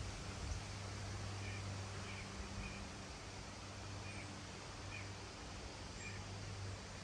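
Wind blowing steadily through foliage, an even rustling hiss, over a low steady hum. Faint short chirps come through several times.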